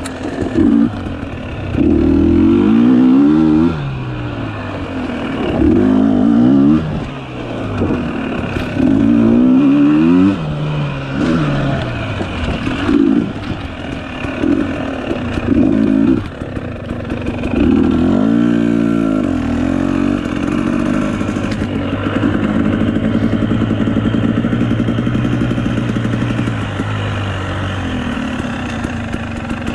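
Dirt bike engine revving up and dropping again and again as the throttle is worked along a tight trail. For the last several seconds it settles to a steady, even run.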